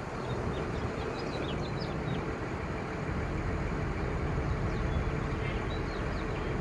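The Ford F800 crane truck's 5.9L Cummins six-cylinder turbo diesel running steadily, with a few faint short high chirps over it.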